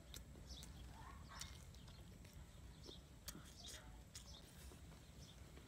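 Near silence, with faint scattered clicks and smacks of someone chewing food with the mouth open.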